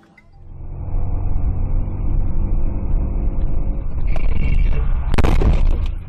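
Loud, steady low rumble of a car driving, recorded by its dashcam, then a sudden loud crash about five seconds in, followed by a few sharp knocks.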